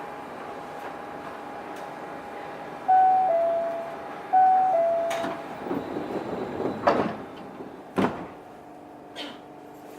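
Osaka Monorail 1000 series car standing at a station, its doors closing. A two-note falling door chime sounds twice, then the sliding doors shut with sharp thuds about seven and eight seconds in, over the steady hum of the stopped car.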